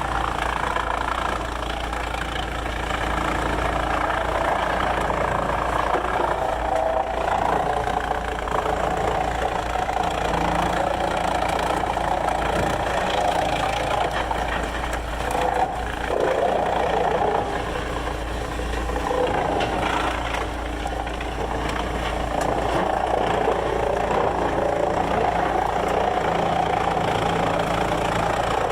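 Sawmill machinery running steadily: an engine idling with a continuous mechanical rumble and hum.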